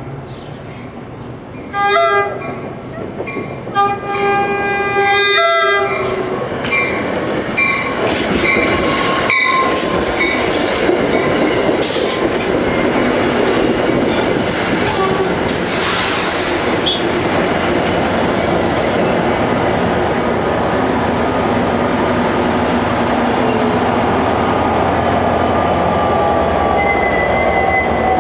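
NJ Transit diesel push-pull commuter train at a grade crossing: a short horn blast, then a long one, followed by the Comet coaches and locomotive rolling past close by with a steady clatter of wheels on rail and high squeals from the wheels.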